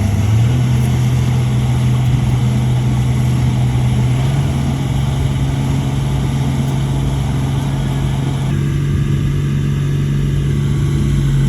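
Bulldozer diesel engine running steadily under power, a constant deep engine note with a rougher, noisier layer above it. The engine note steps up slightly just before half a second in, and the higher, rougher part of the sound falls away about three quarters of the way through.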